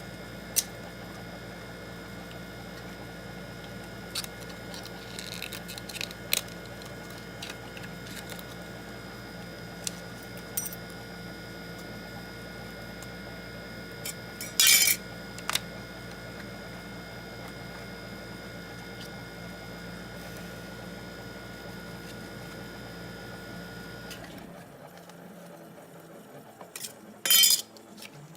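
Small metal tools clicking and clinking against a phone and the work surface during a smartphone glass repair, over a steady electrical hum from bench equipment that cuts off about 24 seconds in. The loudest clinks come about halfway through and near the end.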